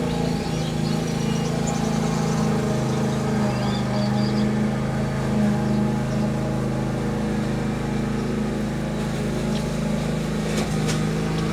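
Steady low mechanical hum, like a motor or engine running continuously, with small aviary birds chirping faintly over it during the first few seconds and a few light clicks near the end.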